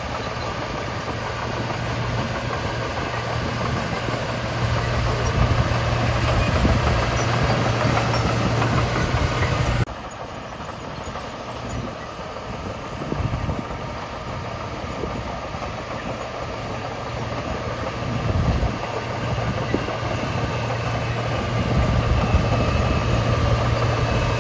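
Heavy diesel engines of construction machinery running steadily, a low drone with mechanical noise above it. The level drops suddenly about ten seconds in, then builds again toward the end.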